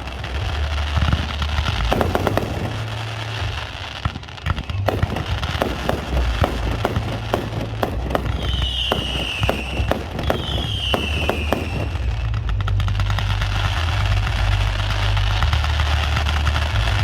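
Fireworks going off: a run of sharp bangs and crackling bursts, with two short whistles falling in pitch about halfway through, and denser crackling toward the end.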